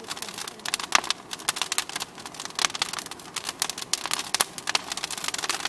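Bonfire burning, with a dense, irregular crackling and popping of snaps over a light hiss.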